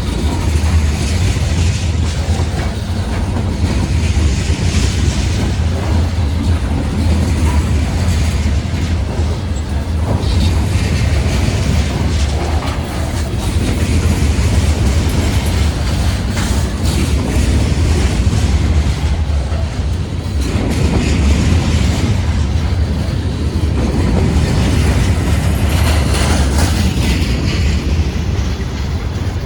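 Freight train rolling past, its railcar wheels clicking over the rail joints over a steady low rumble.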